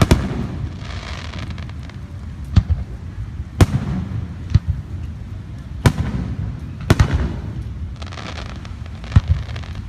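Aerial fireworks bursting: about seven sharp, loud bangs at uneven intervals of one to two seconds, with bursts of crackling after some of them over a steady low rumble.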